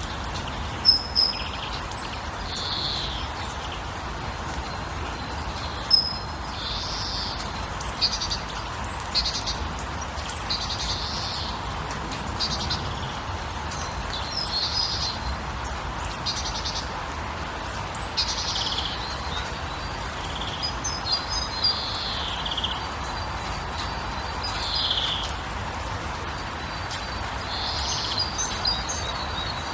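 Songbirds chirping and trilling in short, repeated calls, over a steady background hush.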